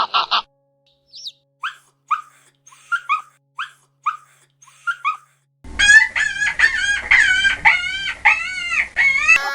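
Animal calls in two runs: first a string of short, quiet falling chirps about twice a second, then, from about halfway, a louder run of arched, pitched calls about twice a second that stops abruptly near the end.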